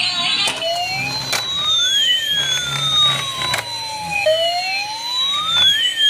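Electronic siren wailing, its pitch sweeping slowly up and then down twice, with a few faint clicks.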